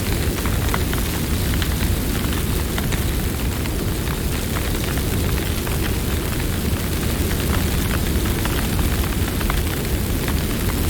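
Campfire burning, with a steady low rumble of flames and many small, irregular crackles and pops from the burning wood.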